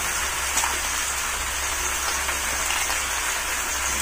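Snails in their shells frying in a hot wok: a steady sizzling hiss.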